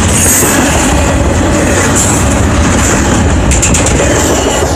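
Double-stack intermodal well cars rolling past: a loud, steady rumble of steel wheels on rail, with a short run of clicks about three and a half seconds in.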